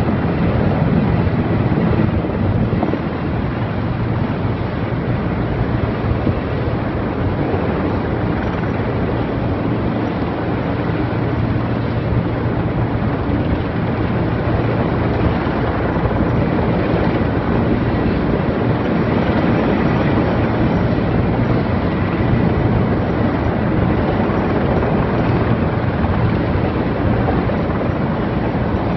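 Erickson S-64 Air-Crane heavy-lift helicopter hovering, its rotor and twin turbines making a steady, loud noise with a faint high whine over it.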